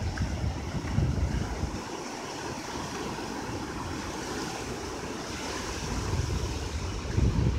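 Ocean surf washing onto the beach, a steady hiss, with wind buffeting the microphone in low rumbling gusts at the start and again near the end.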